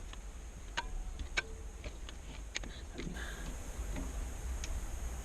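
Scattered sharp clicks, a few seconds apart and irregular, from a click-type torque wrench and socket working the cylinder head bolts on a Chevy 350 V8.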